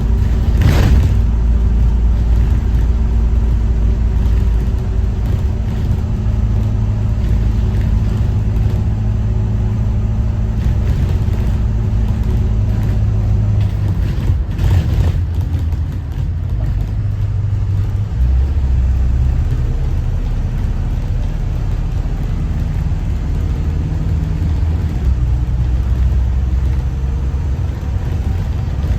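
Detroit diesel engine of a Thomas Saf-T-Liner C2 school bus running under way, a steady low drone whose pitch shifts about halfway through and again a few seconds later. A short burst of noise cuts across it about a second in and again about halfway.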